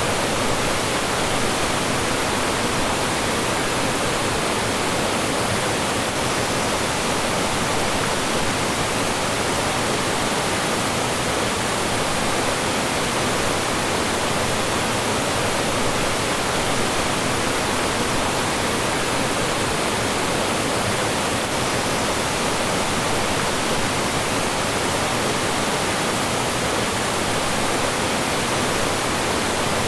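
Mountain stream rushing and falling over rocks: a steady, full roar of water with no breaks.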